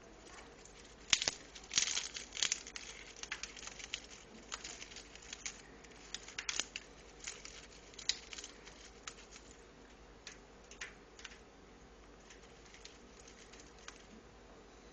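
African grey parrot working at a chew toy with its beak to get at a stuffed-in peanut: irregular clicks, snaps and tearing, busiest in the first half and thinning out after about ten seconds.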